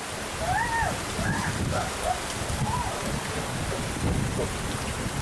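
Steady rain falling and pattering on surfaces, with a few faint short calls that rise and fall in pitch, like bird calls.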